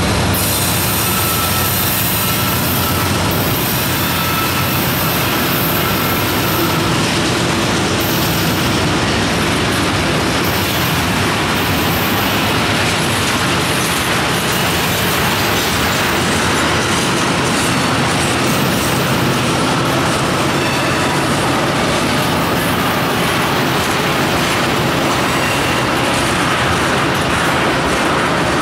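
Freight train cars rolling past on the rails, a loud, steady rolling rumble and rattle of wheels on track, with a faint high wheel squeal in the first few seconds.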